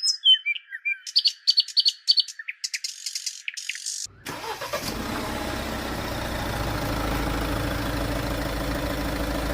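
Birds chirping and tweeting for about four seconds, heard thin with no low end. Then a vehicle engine starts up and runs steadily to the end.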